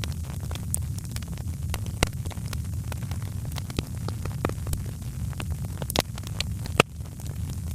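Wood fire burning in a fireplace: irregular sharp crackles and pops over a steady low rumble of the flames, with one louder pop near the end.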